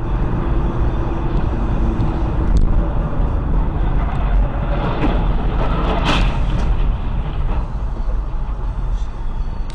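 Steady low rumble of a vehicle driving, engine and road noise, with a brief louder noise about six seconds in.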